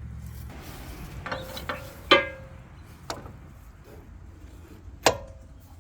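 Sharp metal-on-metal clanks from tools or parts striking steel on an excavator undercarriage: a few light knocks, a loud clank about two seconds in and another near the end, each ringing briefly. A low hum stops about half a second in.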